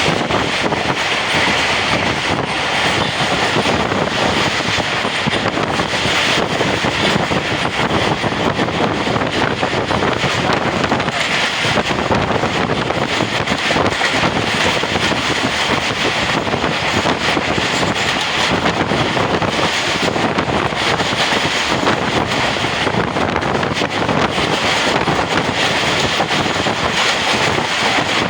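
Pakistan Railways express train running at speed: a loud, steady rush of wheel and track noise, with wind on the microphone.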